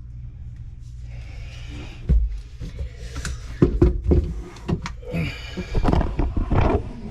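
Work noise under a sink: a steady low hum, then from about two seconds in irregular knocks, clatter and rustling of parts being handled.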